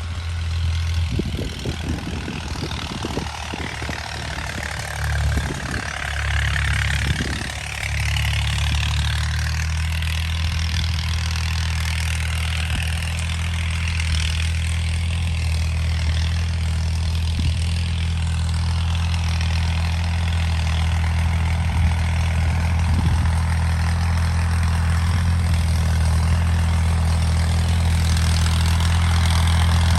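Al-Ghazi 65 hp tractor's diesel engine running steadily while driving a rotavator. Irregular knocks and clatter during the first several seconds, after which the engine holds an even, steady note.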